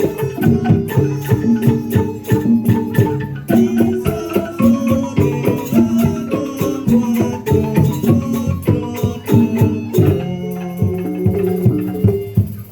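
Percussion music: tuned struck instruments play a fast, dense pattern of ringing notes over drums. It thins out near the end and then breaks off.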